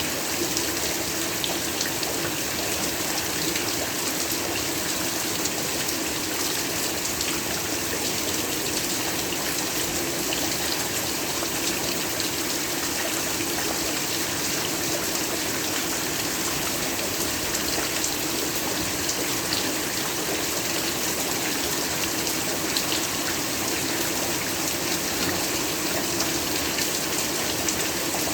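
Heavy rain falling steadily: a dense, even hiss full of fine drop ticks, unchanging throughout.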